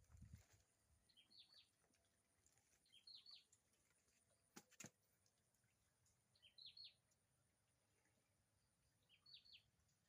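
Faint bird calls over near silence: a short phrase of three or four high, quickly falling chirps, repeated four times a few seconds apart. A pair of faint sharp clicks sounds about halfway through.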